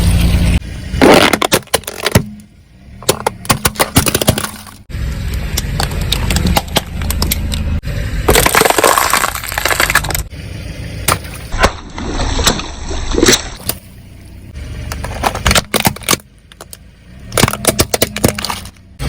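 Brittle objects cracking, crunching and breaking under a car tyre in several separate bursts of sharp cracks, with a low rumble from the car under some of them.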